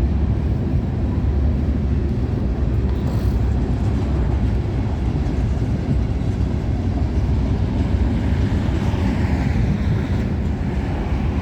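Steady low rumble of freight cars rolling past on the track.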